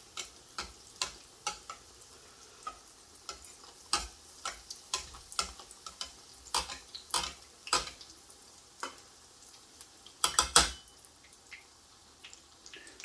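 Breaded chicken cutlet shallow-frying in sunflower oil: irregular sharp pops and crackles of spitting oil over a faint sizzle, thinning out after the first few seconds, with a brief louder cluster of pops near the end.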